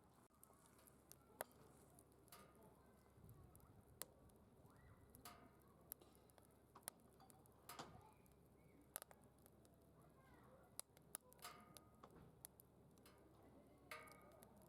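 Wood fire burning in a DOD Mecha Moe Fire secondary-combustion fire pit, crackling faintly with irregular sharp pops about once a second.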